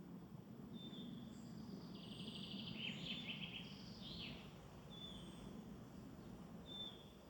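Faint woodland birdsong: a bird repeats a short, high, falling call note every second or two, and in the middle a second bird sings a louder, rapid trilled phrase. A steady low background rumble runs underneath.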